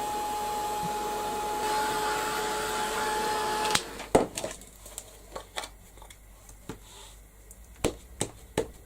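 Craft heat tool blowing steadily with a steady whine, switched off suddenly about four seconds in; then several light clicks and taps of handling on the work table.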